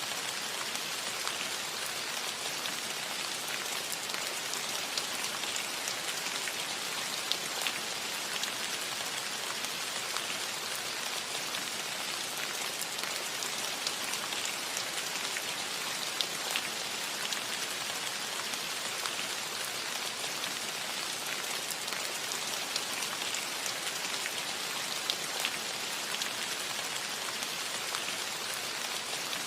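Steady rain falling on a roof: an even hiss of rain with the scattered ticks of individual drops striking the roof.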